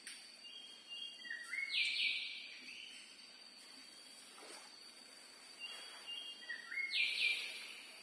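A bird calling a short phrase of stepped notes, twice, about five seconds apart.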